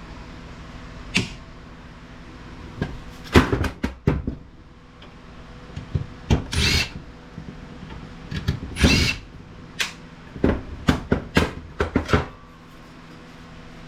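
Cordless drill/driver run in short bursts to back out screws from IT equipment casings, between bouts of metal parts clicking and clattering as they are handled.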